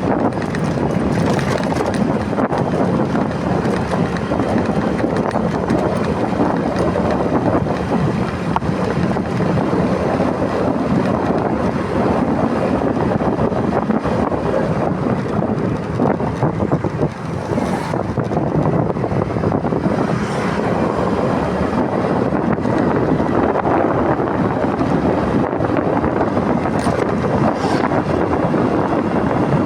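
Steady wind noise buffeting the microphone of a moving motorcycle, with the motorcycle running underneath.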